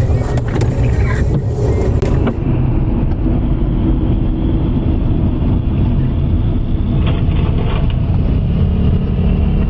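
Steady low rumble of a car on the road, engine and tyre noise as picked up by a dashcam.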